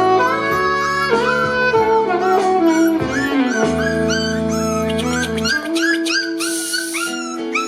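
Month-old Border Collie puppies yipping and whimpering in many short, high squeals, over background music.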